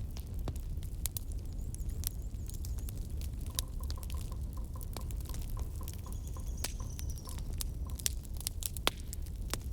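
Wood campfire crackling, with irregular sharp pops over a low steady rumble of burning.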